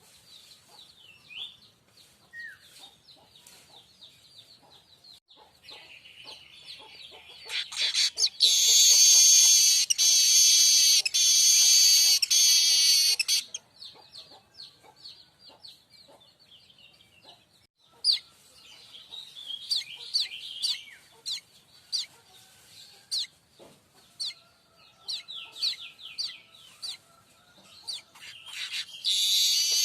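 Streaked weaver (manyar kembang) singing: scattered high chirps and clicking notes, broken by a long, loud, buzzing wheeze about eight seconds in that lasts some five seconds, and another wheeze starting near the end.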